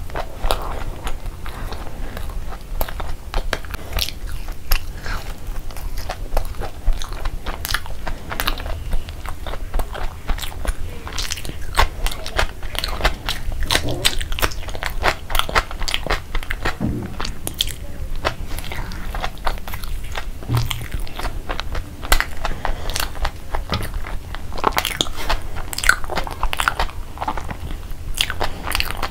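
Close-miked chewing of a breaded fried chicken patty, with an irregular run of crisp crunches and mouth sounds.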